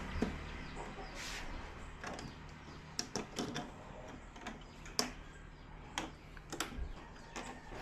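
Scattered light clicks and taps of TV parts being handled and fitted during reassembly, with a brief swish about a second in.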